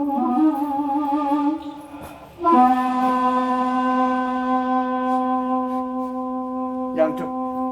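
Daegeum, the large Korean bamboo transverse flute, heard through a hi-fi playback system playing a slow improvisation: a wavering note with wide vibrato, a brief pause about a second and a half in, then one long held low note rich in overtones.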